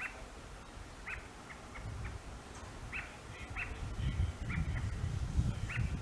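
American robins calling: a series of short, sharp chirps at irregular spacing, roughly one or two a second. A low rumble underneath builds from about two seconds in and is loudest near the end.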